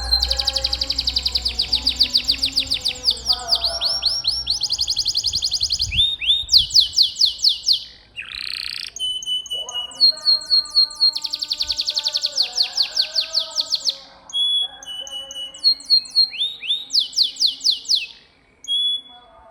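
Domestic canary singing: fast rolling trills of rapidly repeated high notes in phrases of several seconds, with short breaks between them, stopping shortly before the end.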